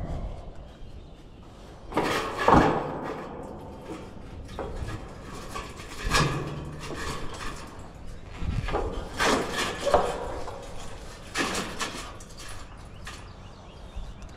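Uneven clunks and metallic clatter of tools and unit parts being handled during reassembly, with single knocks about two, six, nine and eleven seconds in.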